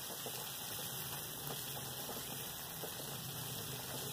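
Beans, onion and a dried red chilli frying in coconut oil in a metal kadai: a steady sizzle, with faint scrapes of a spatula stirring them.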